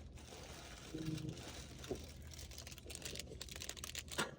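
Plastic snack bags crinkling as they are handled and stocked into a vending machine, with scattered clicks and a sharper knock near the end. A low steady hum runs underneath.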